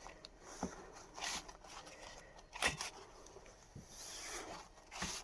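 Faint, scattered rustling and handling noises of a set of ship's signal code flags being looked through, with a few soft clicks and a brief hiss of rubbing near the end.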